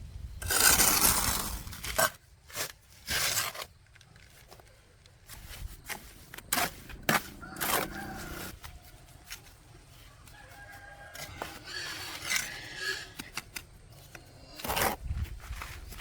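Chickens clucking and a rooster crowing, with short pitched calls in the middle stretch. Loud scraping noises come in between, the loudest about a second in.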